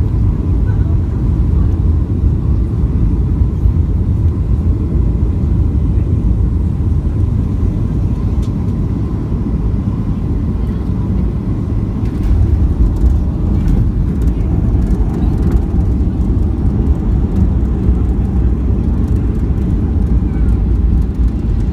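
Cabin noise of a Boeing 737-800 during its landing: a steady low rumble from the engines and the airflow past the fuselage, heard from inside the cabin.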